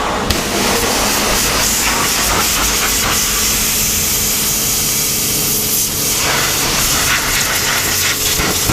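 Steady rushing hiss of wind over an action camera's microphone, with many small clicks and rattles throughout.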